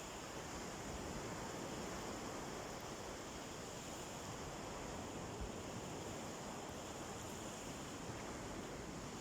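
Calm sea surf washing on a beach: a steady, even wash of small waves, with some wind.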